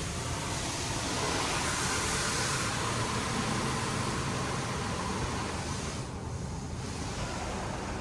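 Touchless automatic car wash at work on the car, a steady rushing hiss of spray or air over the body that swells about a second in and eases about six seconds in, over a low hum.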